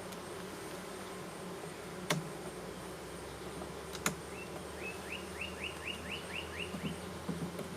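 Honeybees buzzing steadily around an open, overcrowded hive, as a low hum. There are two sharp knocks, and in the second half a quick run of short, high rising chirps.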